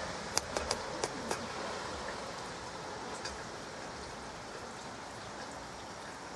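Light rain falling: a steady soft hiss, with a quick run of about five sharp drips tapping close by in the first second and a half and occasional fainter drips after.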